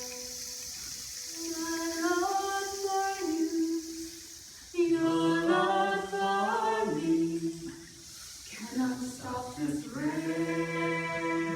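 Music: voices singing long held notes that slide between pitches, without instruments, in three phrases.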